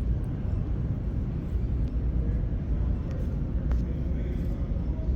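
Steady low rumble of a large indoor exhibition hall, with faint distant voices and a couple of faint knocks.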